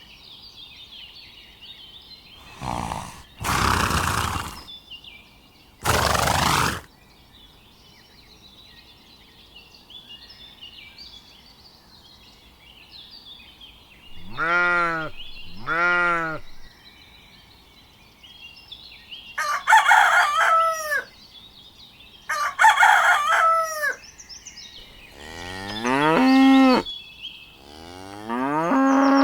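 Farmyard animal sounds over steady background birdsong: a rooster crowing and chickens calling, with a cow mooing near the end.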